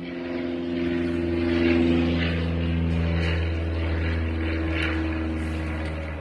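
A steady motor drone: a low hum with a few held tones above it, swelling slightly about two seconds in.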